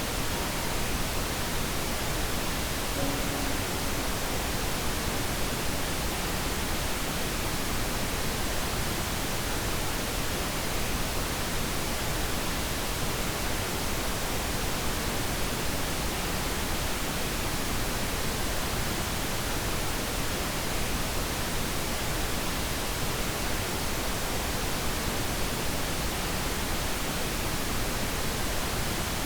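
Steady pink noise played as a sleep aid: an even, unchanging hiss spread from low to high pitches.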